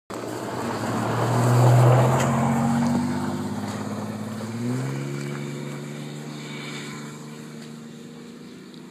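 Truck engine running, loudest about two seconds in. Its note steps up in pitch about halfway through, then it fades steadily as it pulls away.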